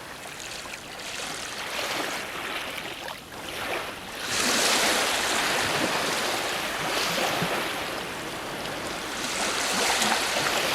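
Ocean waves breaking on a shore as a steady hiss of surf, with a wave crashing about four seconds in and another swell near the end.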